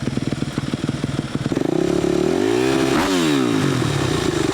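Motocross motorcycle engine running at low revs with a choppy beat, then rising in pitch to a peak about three seconds in and falling back.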